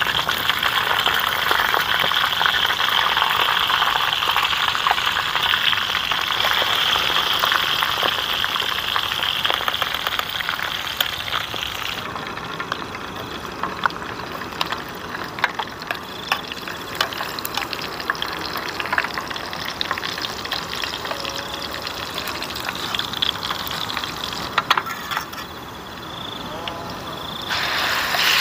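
Chicken pieces frying in hot oil in a small pan on a portable gas stove, with a steady sizzle. About twelve seconds in it turns to a quieter sizzle with clinks and scrapes of a spoon stirring chili in the pan.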